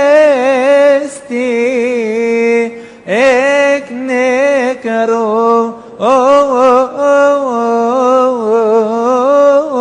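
A man's voice chanting a long, melismatic Coptic liturgical melody, each held syllable decorated with quick wavering turns of pitch, in several phrases broken by short breaths.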